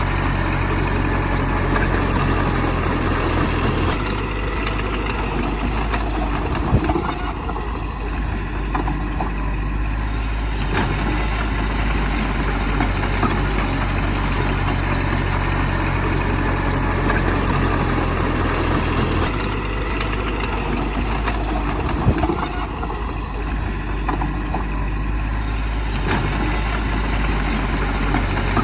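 Diesel engines of heavy earthmoving machinery running steadily, their low note shifting about four seconds in and again about nineteen seconds in. A sharp knock or clank sounds about seven seconds in and again about twenty-two seconds in.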